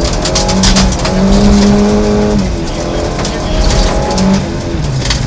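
Triumph rally car's engine revving hard on a gravel road, heard from on board: the revs climb and hold high, drop back about two and a half seconds in, then climb again and fall near four seconds. Gravel crackles against the car throughout.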